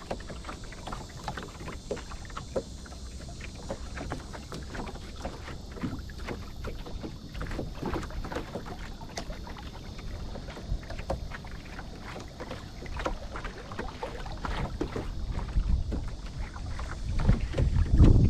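Small waves lapping and slapping against the hull of a small fishing boat in irregular little splashes. Wind rumbles on the microphone and grows much louder near the end.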